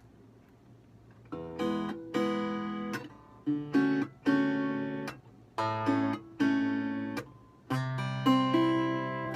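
Acoustic guitar strumming chords. The first strum comes about a second in after a quiet moment, and each chord fades before the next.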